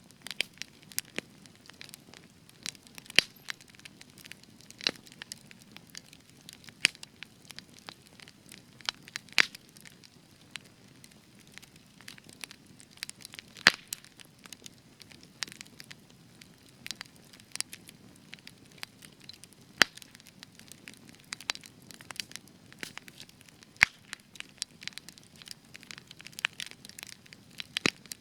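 Spruce-wood campfire crackling and popping in irregular sharp snaps over a soft low hiss of the flames, with a few louder pops standing out.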